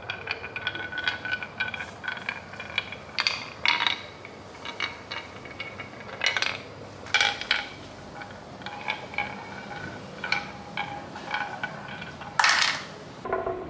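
Glass marbles clicking and clinking along a marble run: an irregular run of small ringing clicks, with a louder clack near the end.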